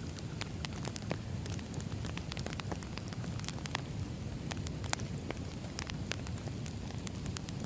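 Wood fire burning in a fireplace: a steady low rumble with frequent irregular crackles and sharp pops from the burning logs.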